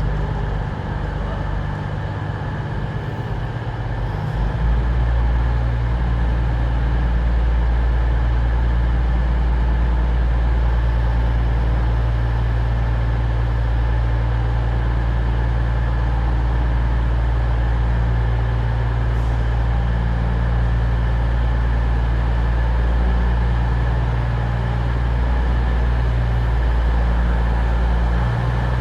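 Class 222 Meridian diesel multiple unit's underfloor diesel engines running steadily with a deep hum, growing louder about four to five seconds in and then holding level.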